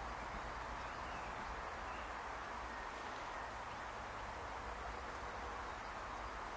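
Faint, steady rumble and hiss of a distant electric multiple unit running past on a far track, with no horn or clear wheel clatter.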